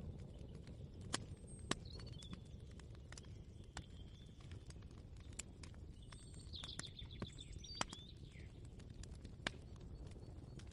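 Kitchen ambience: a low steady rumble with scattered light clicks and knocks at irregular intervals, and short bird chirps twice, about two seconds in and again around the middle.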